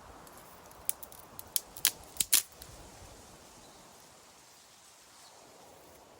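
A quick series of about six sharp cracks within a second and a half, the last the loudest, then only faint outdoor background.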